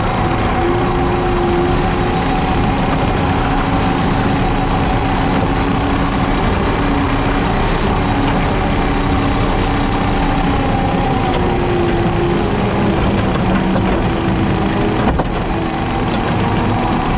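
JCB Teleskid skid steer's diesel engine running steadily while driving a 7-foot Jenkins bush hog mowing grass, with one sharp click about fifteen seconds in.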